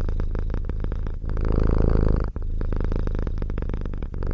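Domestic cat purring loudly and close up, a rapid rumbling pulse in long stretches with brief breaks between breaths.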